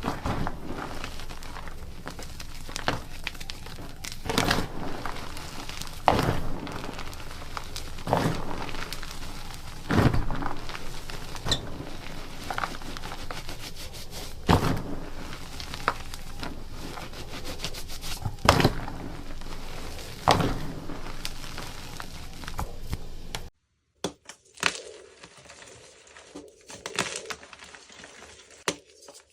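Block gym chalk being crushed by hand up close: a steady crumbling texture broken by sharp crunchy cracks about every two seconds. About 23 seconds in it cuts abruptly to a quieter, softer crumbling.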